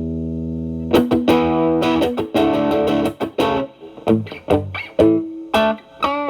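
Stratocaster through a Xotic BB Plus preamp's Channel B set as main overdrive (gain 8–9) into a Marshall Valvestate amp. A held, sustaining overdriven chord rings for about the first second, then a run of quickly picked single notes and short phrases follows.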